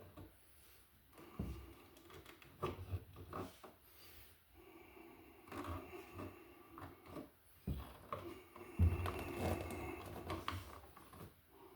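Hand tools and wire being worked at a wall receptacle: irregular small clicks, scrapes and knocks, busiest and loudest about nine seconds in.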